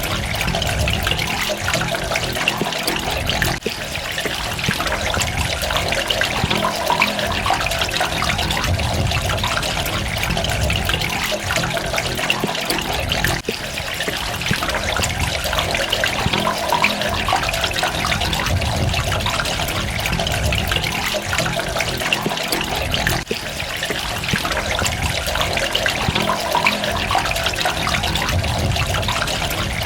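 Water running steadily, with a brief dip in level about every ten seconds.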